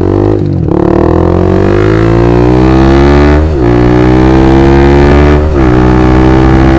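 Honda Supra GTR 150 motorcycle engine accelerating through the gears, its exhaust note climbing slowly in pitch and dropping at each upshift, about half a second, three and a half and five and a half seconds in.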